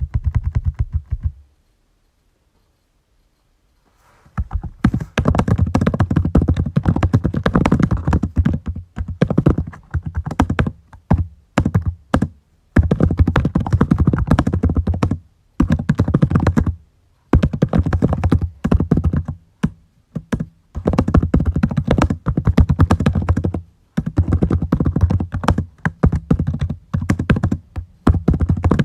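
Typing on a computer keyboard: fast runs of key clicks broken by short pauses, with a silent gap of a couple of seconds near the start.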